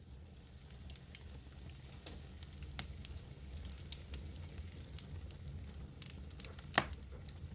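Wood fire burning with a steady low roar and scattered crackles, with one loud pop near the end.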